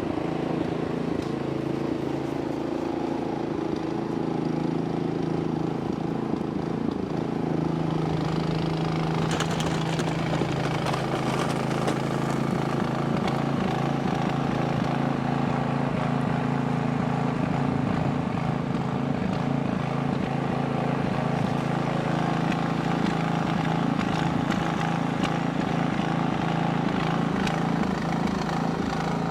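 Gasoline snowblower engine running steadily.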